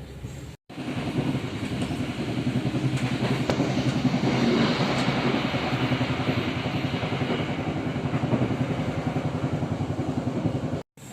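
An engine running loud and steady with a fast low pulsing throb, the noise swelling around the middle. It starts and stops abruptly at edit cuts.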